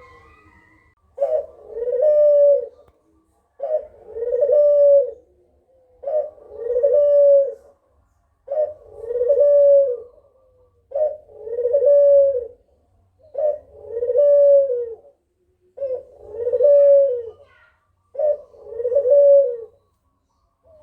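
Kugeruk dove cooing in a repeated phrase: a short note, then a longer rolling coo. The phrase comes eight times, about every two and a half seconds.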